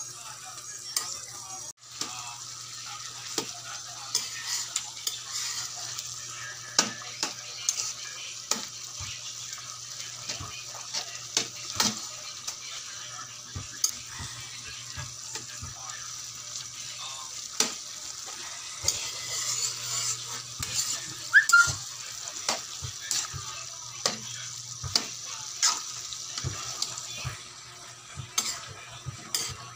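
Pancit bihon noodles and vegetables frying with a steady sizzle in a wide aluminium pan, while a metal spatula stirs and tosses them with frequent clicks and scrapes against the pan. The sizzle grows heavier in the second half.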